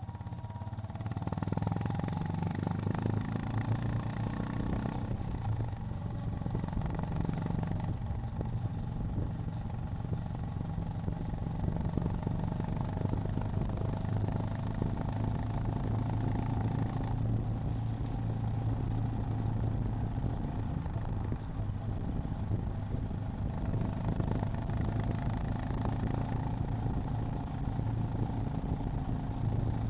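Honda GB350's air-cooled single-cylinder engine running on the road, heard from the rider's position. It grows louder over the first couple of seconds, then holds a steady low note.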